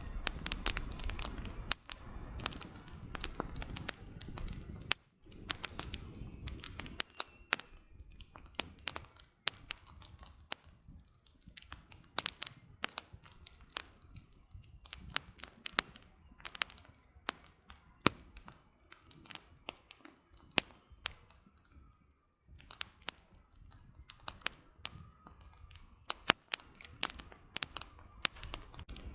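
Campfire of burning firewood crackling: irregular sharp pops and snaps, some loud, with a soft low rumble beneath them for the first several seconds.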